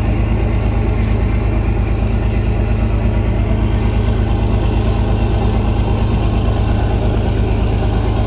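Heavy engine idling steadily, a low, fast, even pulse that holds level without revving.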